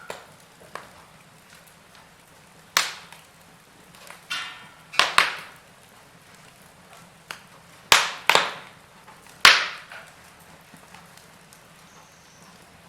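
Wood fire in a fireplace crackling: a low steady hiss broken by several sharp pops, loudest in the middle of the stretch.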